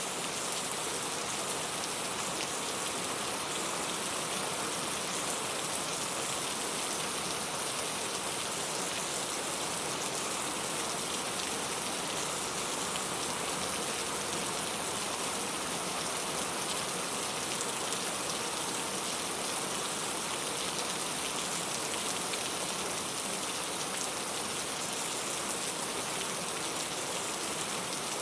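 Steady rain falling, an even hiss of many fine drops hitting a surface.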